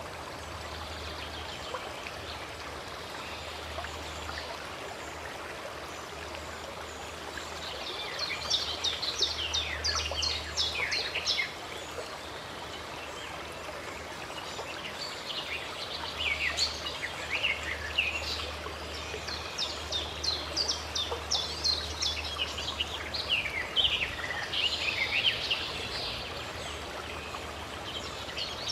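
Running stream water with songbirds singing over it in bursts of quick, falling chirps, first about a third of the way in and again through most of the second half.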